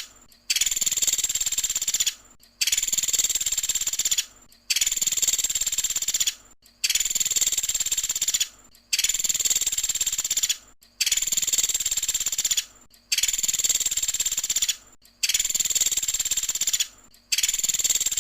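Pelatuk sampit bird song: a dense, high, rapid trill about one and a half to two seconds long. It repeats at an even pace about every two seconds with short silent gaps, nine times in a row.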